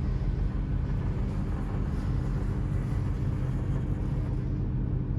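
Great Western Railway Class 800 bi-mode train running, a steady low rumble with a deep hum.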